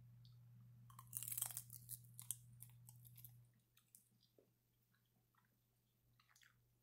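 Dried seaweed snack sheet bitten and chewed: a burst of crisp crunching about a second in, more crunches over the next two seconds, then faint soft chewing.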